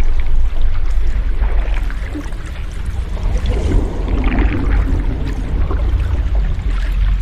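Sea waves washing continuously, a steady hiss over a deep low rumble, with one wave swelling louder about four seconds in.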